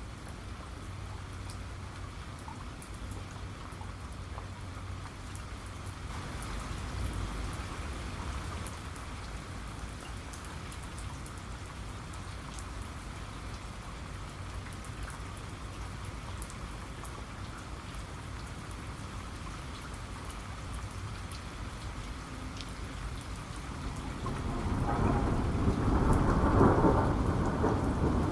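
Steady heavy rain falling, with a low rumble of thunder that builds about three-quarters of the way through and is loudest near the end.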